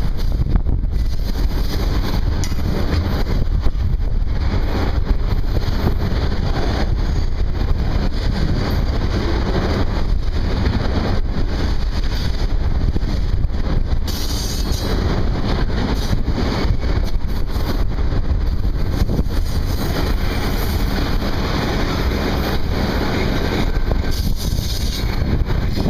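Wind buffeting the microphone over a steady vehicle rumble.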